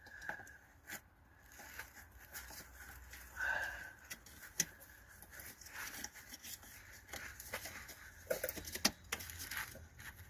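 Faint, scattered small clicks, knocks and rustles of hands handling the fuel pump's plastic wiring connector and leads on the fuel tank.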